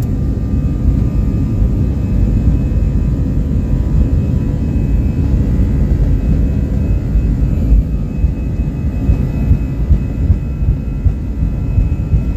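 Jet airliner engines at takeoff power during the takeoff roll, heard from inside the cabin: a heavy, steady low rumble with several steady whining tones over it.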